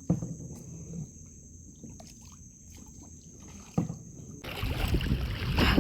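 Kayak on the water: a few sharp knocks of the paddle against the hull and water trickling, over a steady high insect drone. About four and a half seconds in, the drone cuts off and louder splashing and rushing water noise takes over.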